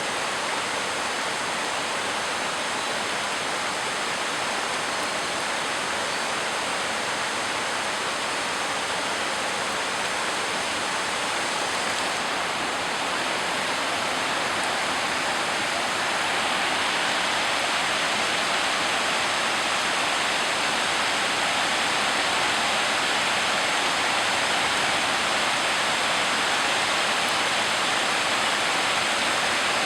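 Heavy tropical rain pouring down as a steady, dense hiss, growing a little louder about halfway through.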